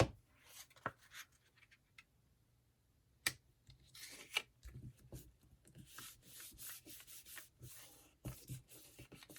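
Faint rubbing and rustling as embossing powder is sprinkled over a stamped paper tag and the tag is handled over a craft tray, with a few sharp taps in the first half.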